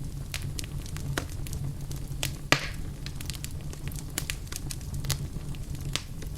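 Wood fire crackling in a fireplace: irregular sharp snaps and pops over a steady low rumble, with one louder pop about two and a half seconds in.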